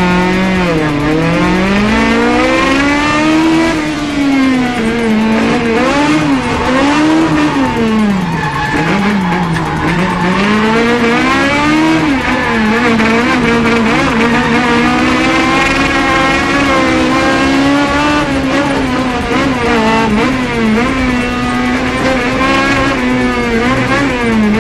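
Naturally aspirated Toyota Corolla KE72 wagon driven hard while drifting. The engine pitch climbs and drops over and over, with tyres squealing through the slides.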